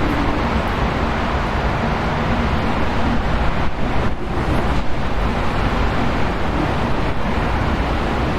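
Steady wind blowing, a continuous full rushing noise heaviest in the low end, easing briefly about four seconds in.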